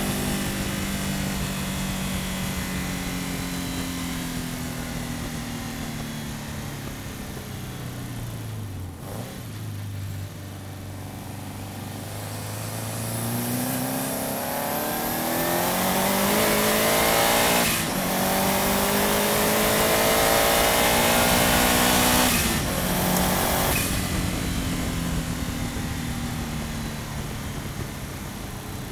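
Subaru Impreza's flat-four engine heard from a front-bumper camera at track speed: the engine note falls as the car slows for about the first third, then climbs hard under acceleration, broken twice by short gear changes, and eases off again near the end. A loud rush of wind and road noise rises with the acceleration.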